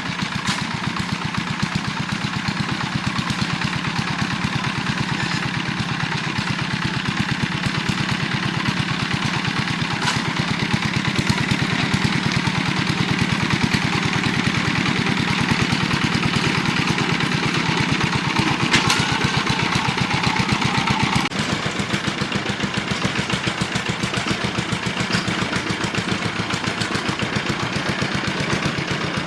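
Small engine running steadily with an even, fast firing pulse. The sound changes slightly about two-thirds of the way through, as some of its middle tones drop away.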